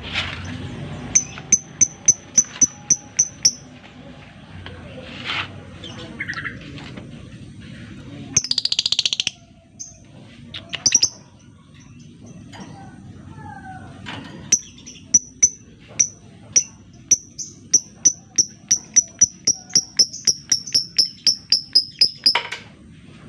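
A lovebird calling in strings of sharp, high, clipped notes. There is a short run a second in, a harsh buzzy screech about eight seconds in, and a long run from about the middle that quickens toward the end, the rapid chattering call played as a lure to set other lovebirds calling.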